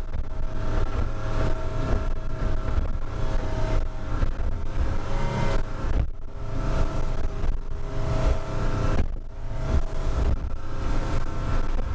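Boat's outboard engine running steadily at cruising speed, about 21 mph, with the hull thumping and splashing through small waves.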